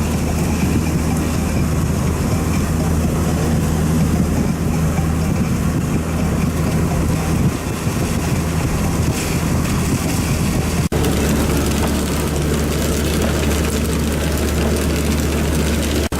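Heavy rain pouring in strong gusty wind, the wind buffeting the microphone: a loud steady rushing with a deep rumble underneath. The sound drops out for an instant about eleven seconds in.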